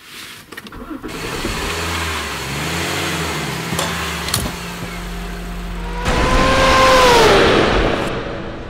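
A car engine is started by push button: a few clicks, then the engine turns over and settles into a steady idle, with two sharp clicks about four seconds in as the automatic gear selector is moved. About six seconds in this gives way to a louder rush with a falling pitch, like a car speeding past.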